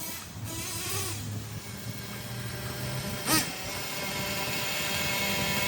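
Ofna Titan's .25 nitro engine idling steadily, still set rich. A brief loud blip about three seconds in.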